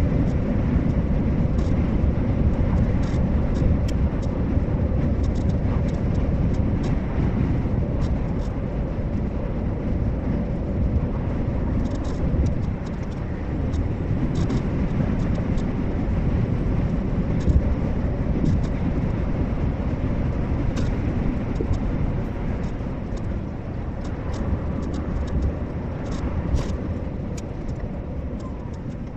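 Lorry cruising at steady speed, heard from inside the cab: a continuous low rumble of engine and road noise with a faint steady hum.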